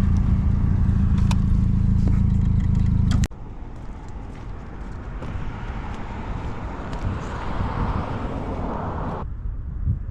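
1275cc MG Midget engine running with a steady low rumble in the open-top car, cutting off abruptly about three seconds in. After that a quieter rushing noise swells and stops suddenly near the end.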